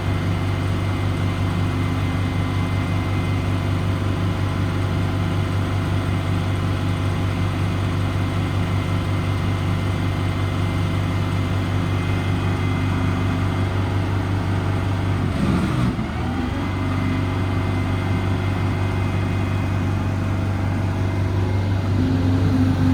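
Paccar PX9 8.9-litre diesel engine of a service truck running steadily at a raised idle, with its hydraulics in use. About two-thirds of the way through, the note wavers and dips briefly, and near the end a new steady hum joins in.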